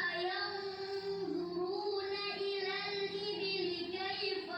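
A young child singing, holding long, high notes that waver slightly in pitch with no break.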